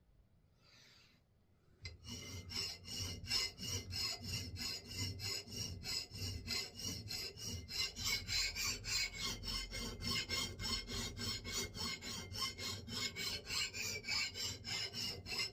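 A hand file stroking back and forth across the steel edge of an axe head, a steady rasping of about three strokes a second that starts about two seconds in.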